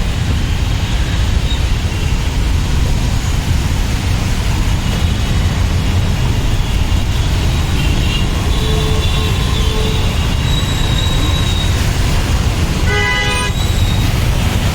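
Road traffic with a steady low rumble and vehicle horns tooting, including a short horn blast near the end.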